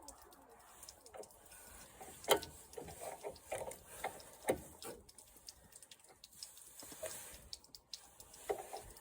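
Faint, irregular clicks and knocks of hands and tools working on a lawn mower's air filter and carburettor, the sharpest knocks about two and four and a half seconds in.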